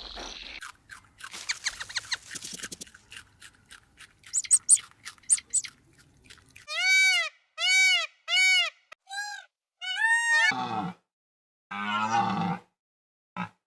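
A run of animal sounds. First come scattered clicks and short high chirps. Then, from about seven seconds in, seven separate arched, pitched calls, the last two shorter. Two short harsh calls follow near the end.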